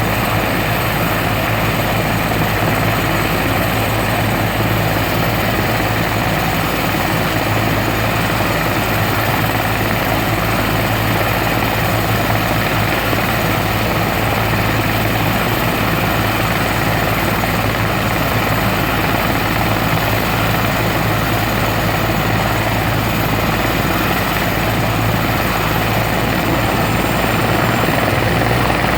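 Helicopter in flight: steady engine and rotor noise with a low hum and a thin high whine, the whine rising slightly near the end.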